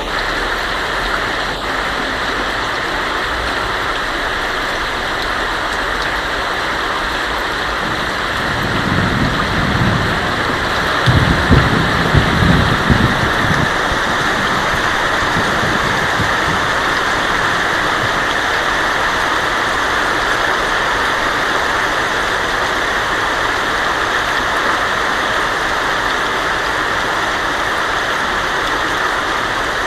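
Heavy rain falling steadily on a tin roof, with a roll of thunder rumbling in about nine seconds in, loudest around twelve seconds, then dying away.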